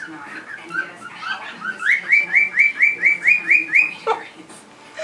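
Pet bird whistling a tune: lower whistled notes, then a run of about nine short rising notes at roughly four a second, ending in a falling swoop.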